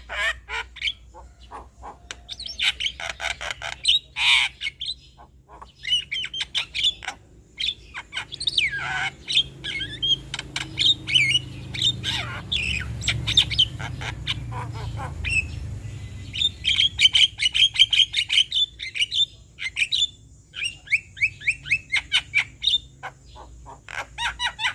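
Male Javan myna singing a varied chattering song: quick runs of harsh notes, squawks and short whistles, in bursts with brief pauses.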